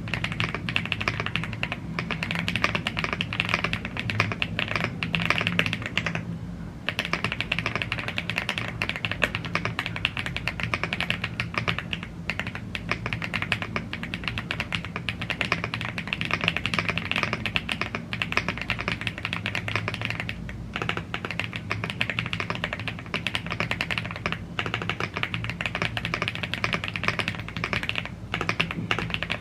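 Continuous fast typing on a YUNZII AL75 gasket-mounted CNC aluminium mechanical keyboard with Blue Grey tactile switches and double-shot PBT keycaps: dense keystroke clacks with a short pause about six seconds in.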